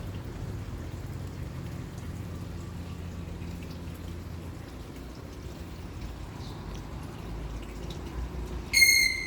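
A low steady background noise, then near the end one sudden loud, high whistle held at one pitch for about half a second before fading.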